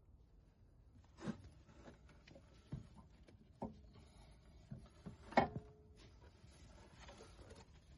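Scattered light knocks and clicks of tools or metal parts being handled, about six in all; the loudest, about five and a half seconds in, rings briefly like struck metal.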